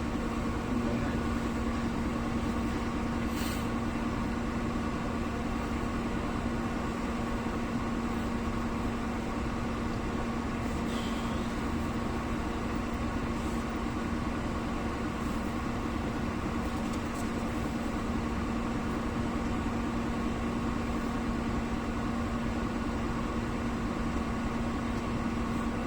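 Steady engine hum with an unchanging pitch, as of an engine left idling.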